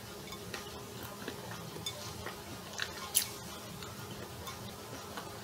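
A person quietly chewing a bite of breaded fried chicken, with faint, scattered wet mouth clicks; a couple of slightly louder clicks come about three seconds in.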